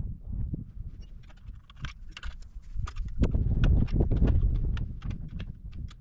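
Irregular clicks, knocks and scraping as the parts of a motorcycle exhaust are handled and cleaned, with a low rumble, busier and louder about three seconds in.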